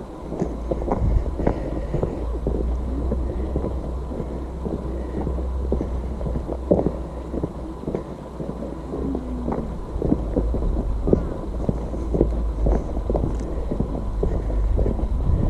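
Wind buffeting the camera microphone as a steady low rumble, with many irregular knocks and scuffs of someone climbing down on foot.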